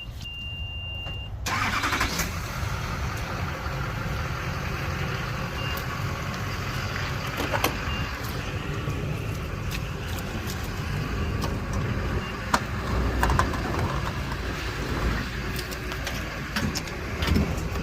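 A steady high tone over quiet stops suddenly about a second and a half in. Steady outdoor noise of vehicles running follows, with scattered clicks and knocks.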